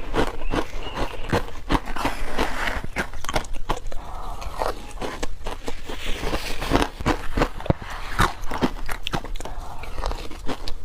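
Close-up bites into wet, frozen matcha ice: a dense, irregular run of sharp crunches and cracks.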